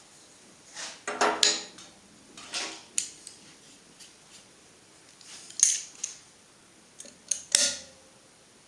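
Steel hand tools clinking and knocking against metal: a string of separate sharp strikes spread over several seconds, a few of them ringing briefly, while work goes on to remove broken screws with a screw extractor.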